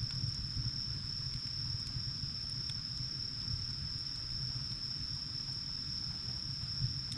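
Wood fire burning in the firebox of a wood-fired bath, a steady low rumble with a few faint, sparse crackles. A steady high-pitched tone runs unbroken over it.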